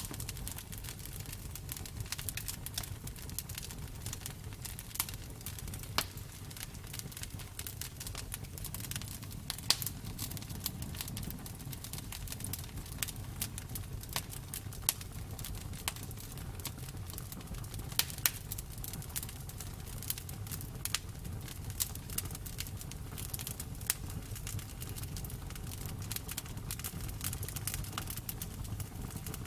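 Campfire burning: wood crackling and popping in irregular sharp snaps over a steady low rumble of the flames.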